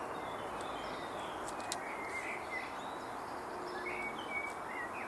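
Steady outdoor background hiss with a few faint, short bird chirps now and then.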